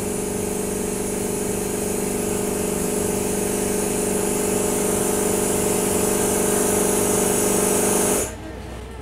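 Running noise inside a moving passenger train carriage: a steady hum of several held tones under a strong high hiss. It cuts off suddenly near the end.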